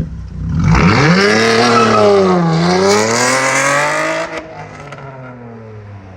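Car engine revving: the pitch climbs, dips, then climbs again before dropping suddenly about four seconds in to a quieter, steady idle.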